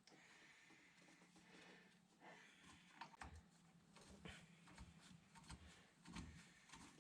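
Near silence with a few faint, short clicks and knocks, about three to four seconds in and again near the end: small handling noises as a nut is put on the axle stub by hand.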